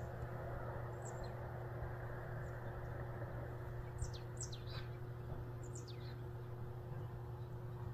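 Outdoor ambience with a steady low hum, and a small bird giving short, high, falling chirps: one about a second in, then several in quick succession around four to six seconds in.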